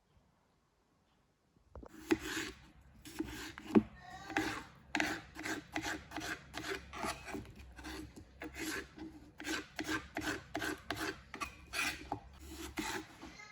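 Rhythmic rubbing or scraping strokes, about two a second, starting a couple of seconds in after near silence.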